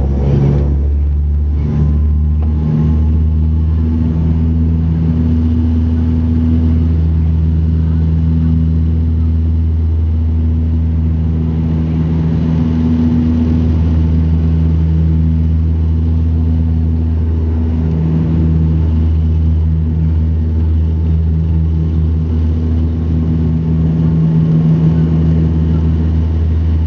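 Bombardier Dash 8 turboprop engines and propellers running at takeoff power: a loud, steady drone made of several low humming tones that waver slightly.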